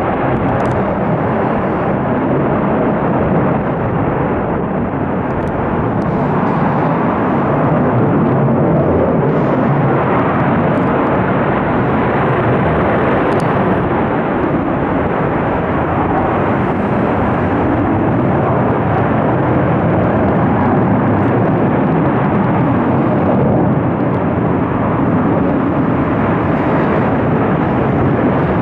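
US military fighter jets taking off, their engines making a loud, steady jet roar that swells slightly after several seconds.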